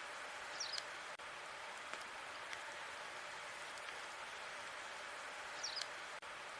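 Wood fire crackling: a steady hiss of burning logs with sparse small pops. A short high squeak comes twice, about five seconds apart.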